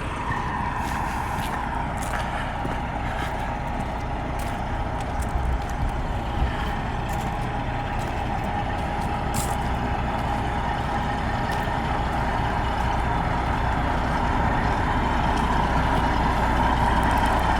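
Semi truck cruising on the highway, heard from inside the cab: a steady diesel engine drone and road noise with a constant whine, getting slightly louder toward the end.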